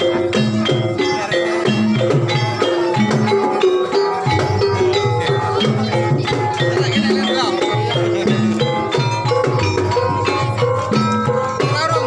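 Banyumasan ebeg accompaniment music: an ensemble of struck pitched percussion, like gamelan metallophones or bamboo, over drums, playing a fast, steady, repeating pattern.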